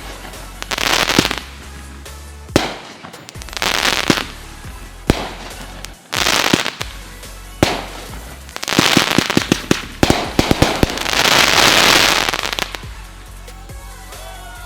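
Consumer fireworks going off in quick succession: repeated sharp bangs, each followed by a second or so of crackling, with a dense run of pops about nine seconds in and the loudest, longest crackle near the end. Music plays underneath.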